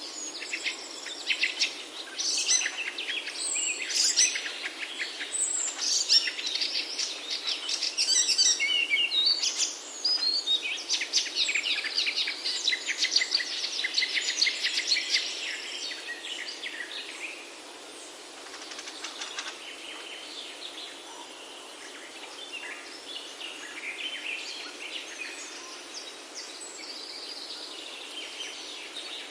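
Several small birds singing and chirping over a steady background hiss, with rapid trills; the song is busiest in the first half and thins out after about seventeen seconds.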